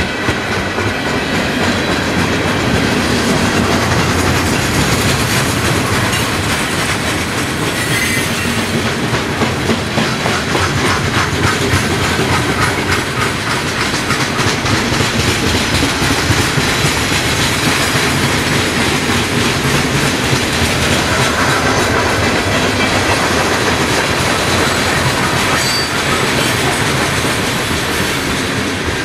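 Freight cars of a long mixed freight train (tank cars and boxcars) rolling steadily past at close range, with a continuous rumble and the wheels clicking over the rail joints.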